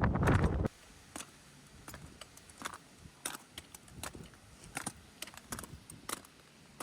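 Wind buffeting the microphone cuts off abruptly in the first second. Then come sparse, irregular crisp crunches, a couple a second: boots stepping in snow.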